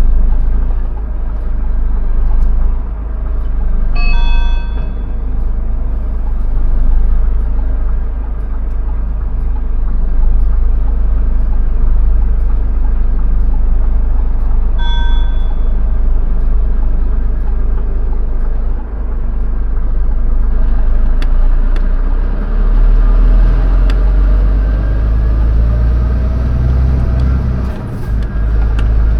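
Truck cab noise while driving: a steady deep engine rumble and road noise. Two short electronic beeps sound about 4 and 15 seconds in. Near the end the engine pitch rises and the rumble grows heavier.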